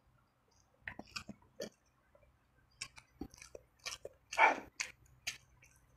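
A person chewing sauced fried chicken and fried instant noodles, making wet mouth clicks and smacks from about a second in. About four and a half seconds in there is one louder, noisier mouth sound.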